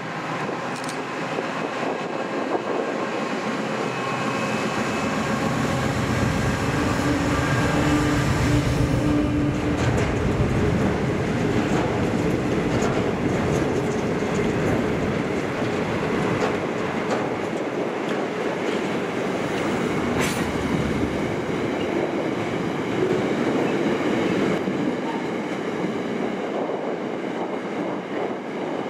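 A diesel-hauled freight train passing close by: the locomotive's engine hums for the first several seconds, then a long line of wagons rolls past with steady rumbling and rapid clicking of wheels over the rail joints.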